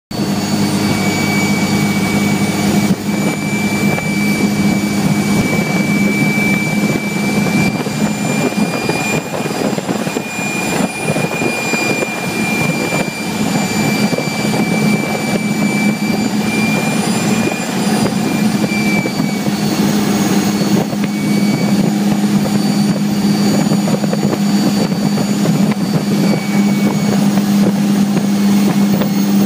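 Cummins 24-valve inline-six diesel in a Chevy pickup pulling under load, a steady high turbocharger whistle riding over the engine's deep drone. The whistle weakens somewhat in the last third.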